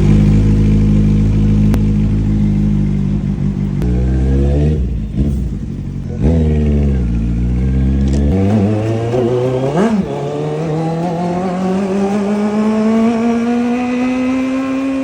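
Kawasaki Z800's inline-four engine idling steadily, then revved in several quick throttle blips, the pitch jumping up and falling back each time. From about ten seconds in, the pitch climbs slowly and evenly as the revs build.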